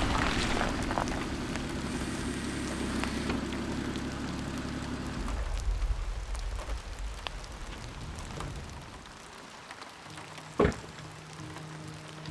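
Steady rain falling, with a low hum underneath that stops about five seconds in, and one sharp thump near the end.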